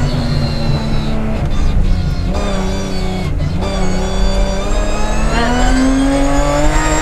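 BMW 325 Group A rally car's straight-six engine heard from inside the cabin. The revs fall off over the first few seconds, with two short breaks a little past two and three seconds, then rise steadily under acceleration from about five seconds in.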